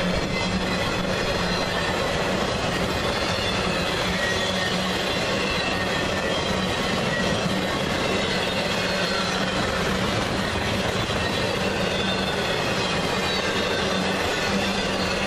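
Empty freight flatcars rolling past: a steady rumble of steel wheels on rail, with a faint, wavering high wheel squeal running through it.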